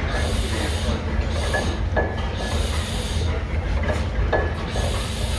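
Large old engine running with a steady low thrum, a sharp knock standing out every second or two.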